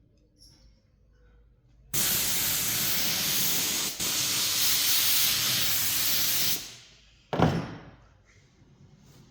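A spray hisses steadily for about four and a half seconds, starting about two seconds in, with a brief break partway through. About a second after it stops there is a single sharp thump.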